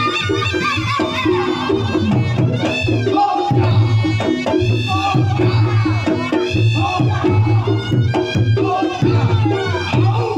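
Reog Ponorogo ensemble playing a jathilan piece: a slompret (Javanese shawm) melody with bending notes over kendang drumming and an evenly repeating percussion pattern.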